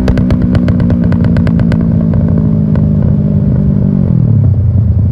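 Yamaha R6 inline-four with an aftermarket Akrapovič exhaust, running at steady revs. A rapid string of sharp pops and crackles sounds over the first two seconds. About four seconds in, the engine note drops as the revs fall.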